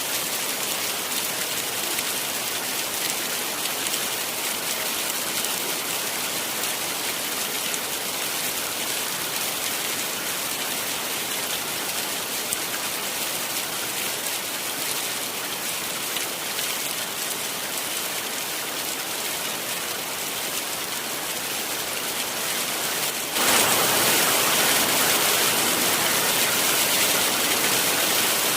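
Heavy rain falling, a steady dense hiss that suddenly becomes louder and brighter near the end.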